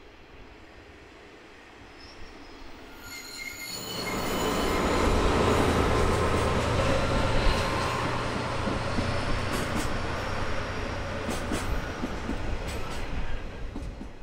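A diesel freight train, a diesel locomotive hauling container wagons, passing close by: a steady low engine hum with rail noise that swells about four seconds in, thin high wheel squeal, and a few sharp clicks near the end before it fades.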